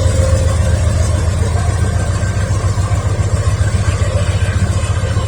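Diesel freight locomotive running, a steady low rumble.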